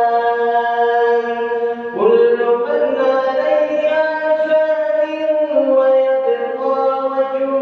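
A man's voice chanting Quranic recitation in the melodic tajweed style. He holds long notes that step between pitches, and a fresh phrase begins about two seconds in.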